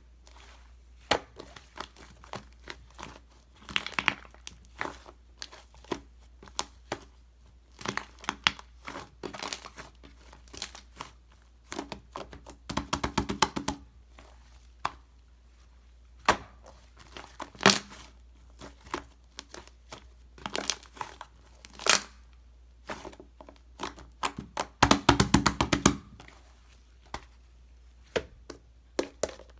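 Mixed slime being squished and stretched by hand, giving irregular wet crackles and pops. Twice, about halfway through and again near the end, it breaks into a quick run of rapid popping clicks as air pockets are pressed out.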